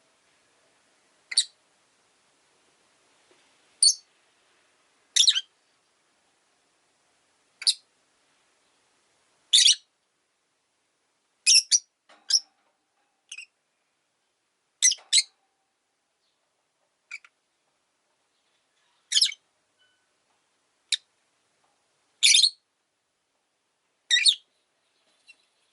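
Rosy-faced lovebird chirping: short, sharp, high-pitched calls, one every second or two, with silent gaps between.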